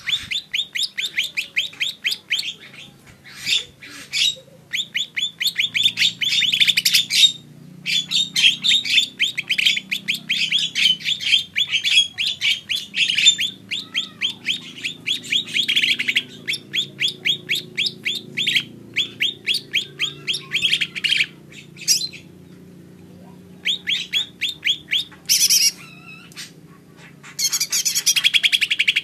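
Cucak ijo mini, a small leafbird, singing in long runs of fast, rapidly repeated chirping notes, broken by short pauses.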